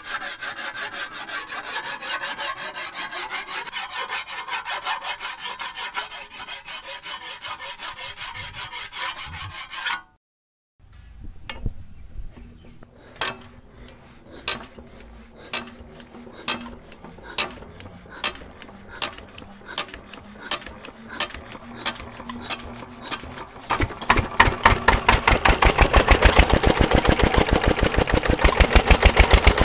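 Fodder chaff cutter driven by a Petter diesel engine, chopping green fodder in a fast, even stream of strokes. After a brief break in the recording, slow regular knocks about once a second over a low hum pick up into a fast, louder beat near the end as the engine and cutter come up to speed.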